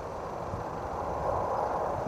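A train rolling by: a steady rumble and noise with no distinct engine note.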